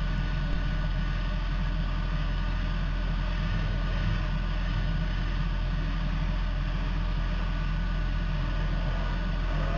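Workshop extractor fans running at full speed: a steady whooshing noise over a deep hum, unchanging throughout.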